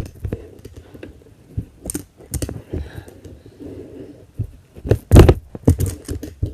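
3D-printed plastic fingerboard clacking and knocking on a hard surface as a kickflip is tried, in scattered sharp clicks, with the loudest cluster of knocks about five seconds in.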